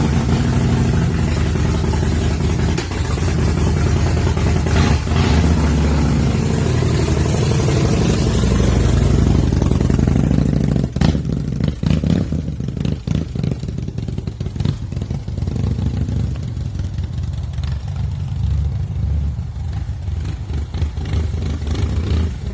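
Heavy cruiser motorcycle engine running just after starting, louder for about the first ten seconds, then dropping to a lower, steady idle with a few sharp clicks.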